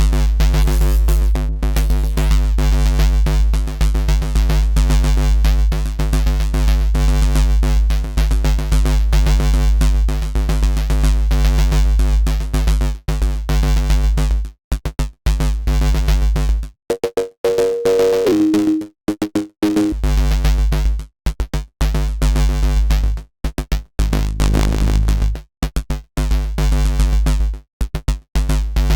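Dirty FM synth bass riff built in Bitwig's Polygrid, looping over a drum-machine beat with a deep, steady low end. About halfway through it starts cutting in and out with short silent gaps, and a brief higher two-note tone sounds in the middle of that stretch.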